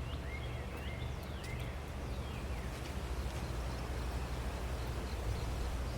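Outdoor ambience: a bird chirping a quick series of short calls in the first two seconds over a steady low rumble.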